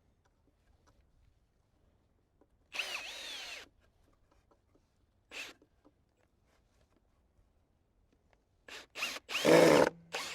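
Power drill driving screws into wooden boards in short trigger pulls: a run of about a second, a brief blip, then a few quick taps and a louder run near the end. The motor's whine rises and falls with each pull.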